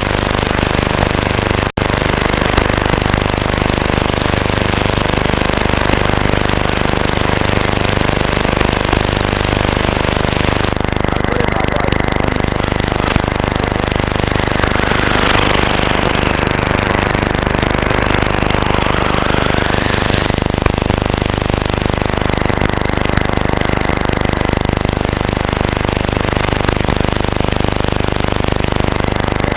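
Shortwave radio audio from an SDRplay RSP1 receiver, swamped by a harsh, rhythmic buzz of impulse interference, which the owner suspects comes from neighbours' household appliances with unfiltered power supplies. Thin steady whistles sit above the buzz, and from about the middle a whistle falls and then rises again over several seconds. The sound drops out for an instant about two seconds in.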